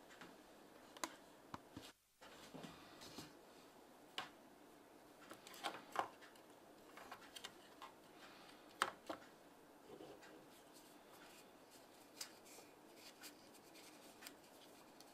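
Scattered small clicks and taps of objects being handled, over faint room noise, with a brief dead-silent gap about two seconds in.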